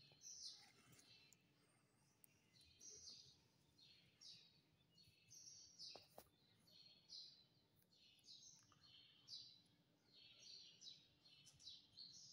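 Faint bird chirps, short high calls repeating about every second, with one faint click about six seconds in.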